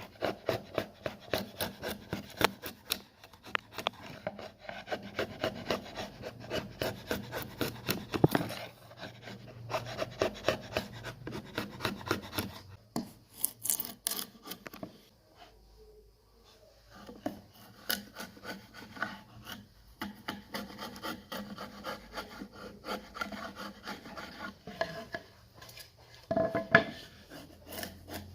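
Hand tool rasping wood in quick, repeated scraping strokes, with a short pause about halfway through.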